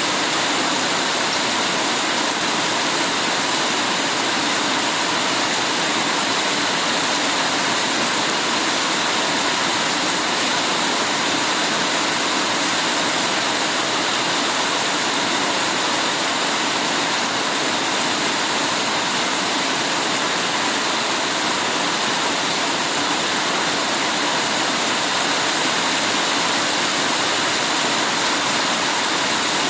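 Heavy rain falling steadily, a dense, even hiss of water with no breaks or separate sounds.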